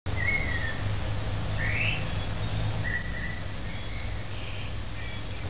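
Birds calling: short whistled notes, a falling one near the start, a sharply rising one just under two seconds in, another about three seconds in and fainter ones later, over a steady low hum.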